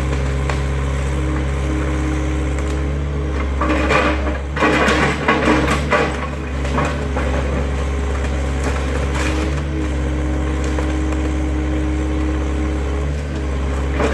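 Excavator's diesel engine running steadily while its bucket crushes the wooden garage structure, with bursts of wood cracking and splintering about three to seven seconds in.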